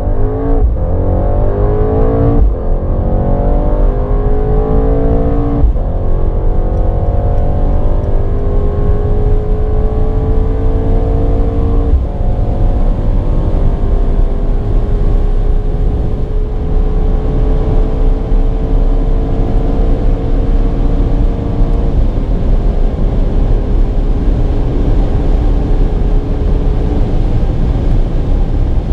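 Twin-turbo 4.0-litre V8 of a performmaster-tuned Mercedes-AMG GT 63 S 4-Door at full throttle in a hard acceleration run, its pitch climbing through each gear. Four upshifts break the climb, each gear held longer than the last as speed builds.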